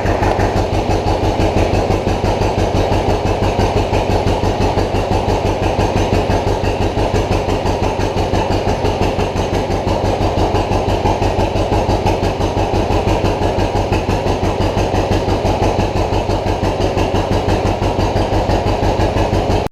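1950 John Deere B two-cylinder tractor engine running steadily after a cold start, with an even popping exhaust beat.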